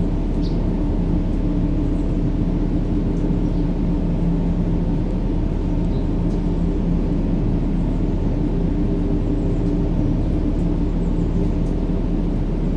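Steady, deep rumbling noise with a faint hum running through it, unchanging throughout: a continuous low-pitched white-noise sleep sound for soothing a baby.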